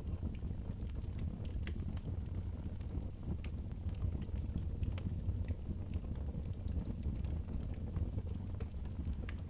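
Wood fire burning in a fireplace: a steady low rumble with sparse, irregular sharp crackles and pops.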